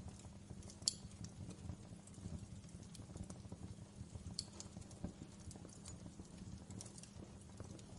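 Wood fire in a fireplace crackling: irregular small snaps and ticks over a steady low rumble of the flames, with one sharper pop about a second in.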